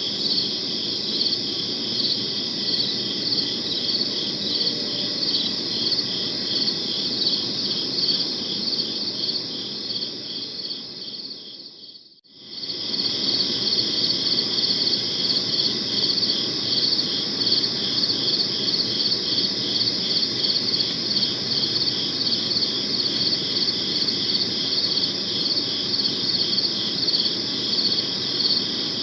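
Crickets chirping steadily in a dense chorus of rapid, even pulses over a low background hiss. About twelve seconds in the whole sound fades out to near silence and fades straight back in, like the joint of a looped recording.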